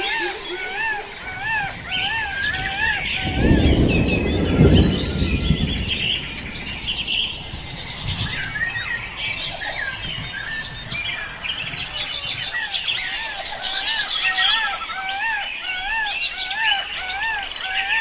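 Forest birds chirping and calling together, with one call repeated rapidly over and over in a rising-and-falling pattern. A low rumble of noise swells between about three and five seconds in and is the loudest part.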